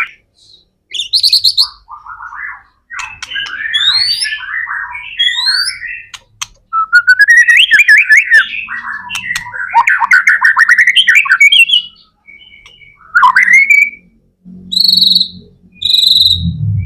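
White-rumped shama singing a loud, varied song: fast warbled phrases and trills broken by short pauses, with rising whistled notes, then a run of short, clear repeated whistles near the end.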